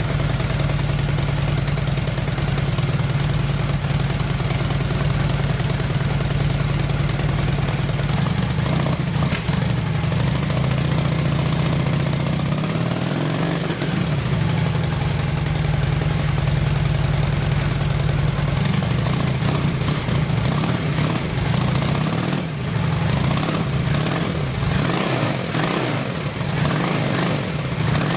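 Honda Shadow VT 600 V-twin motorcycle engine idling steadily.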